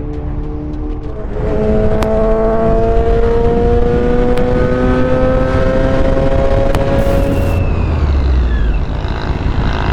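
Motor vehicle engine under steady acceleration, its pitch rising slowly, over wind and road noise. About seven seconds in, a brief falling whine is heard and the engine note drops away.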